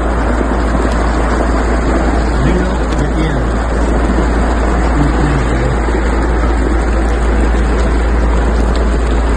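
Loud, steady rush of floodwater with a deep rumble underneath, and a faint voice heard a couple of seconds in.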